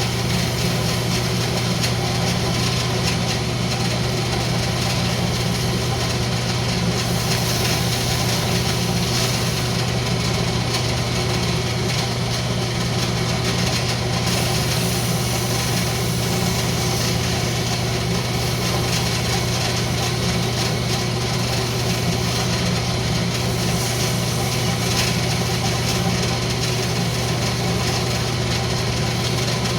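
Wood lathe running steadily with a constant motor hum.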